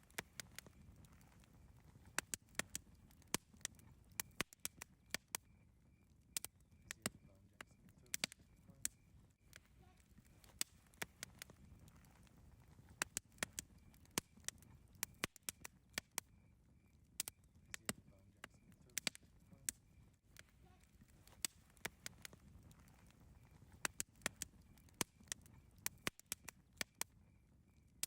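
Campfire crackling: irregular sharp pops and snaps, several a second, over a low rumble.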